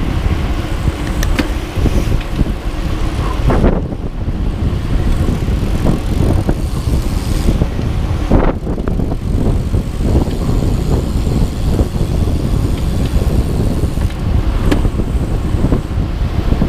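Rumble of a moving vehicle with wind buffeting the microphone, steady apart from a few sharp clicks and two short dips, about four and eight seconds in.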